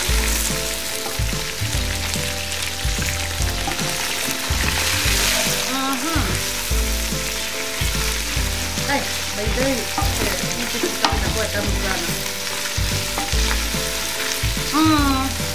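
Meat and onions frying and sizzling in an aluminium pot while a wooden spoon stirs and scrapes through them: the meat browning at an early stage of making pilau.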